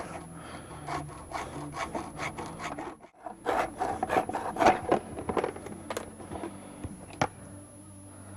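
Hand sawing: rhythmic back-and-forth cutting strokes, a few a second, stopping briefly about three seconds in, then resuming more strongly and ending about seven seconds in with a couple of sharp clicks.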